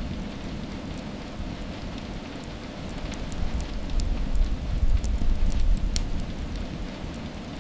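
Steady rainfall with many sharp individual drop ticks over a continuous hiss. A deep low rumble swells about three seconds in and eases off again near six seconds.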